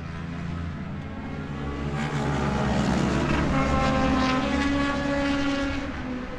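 Racing motorcycle engine passing by at moderate speed: a steady engine note that grows louder, is loudest about halfway through, then fades as the pitch drops slightly.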